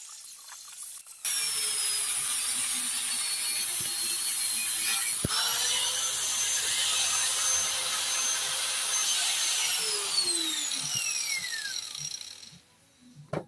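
Angle grinder working on a steel exhaust pipe to take a flange off, with a high whine over the grinding noise. It starts suddenly about a second in, dips and picks up again near the middle, then is switched off and the whine falls away as the disc winds down, with a sharp click near the end.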